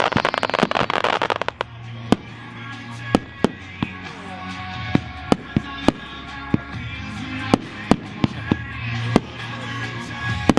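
Consumer firework cakes firing: a dense rapid crackle for the first second and a half, then single sharp bangs every half-second or so. Music plays under them.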